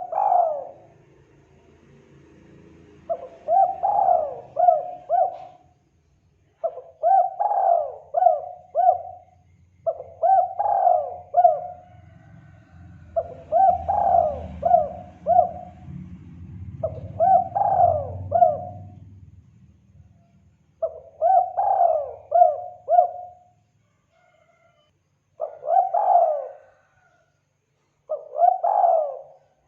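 Spotted dove (tekukur) cooing as a lure call: about nine phrases of three or four quick coos each, coming roughly every three seconds, over a faint low rumble that fades out about two-thirds of the way through.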